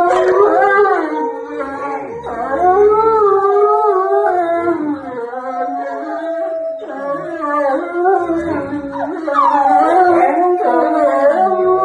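A dog howling in long, wavering notes that slide up and down in pitch, with only short breaks.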